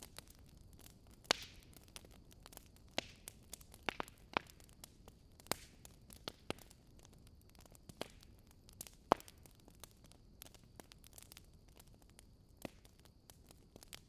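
Wood fire crackling softly, with irregular sharp pops and snaps over a low hiss.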